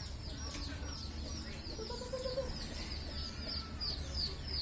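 Many small birds cheeping: a rapid, overlapping run of short, high, falling chirps over a low steady hum.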